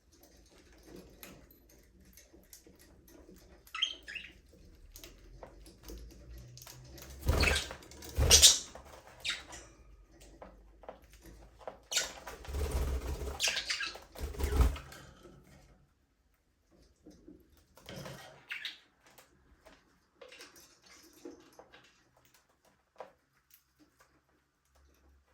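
Budgerigars in a small aviary: a few short chirps and scattered bursts of wing flapping and scuffling, the loudest in the middle, then only sparse small sounds.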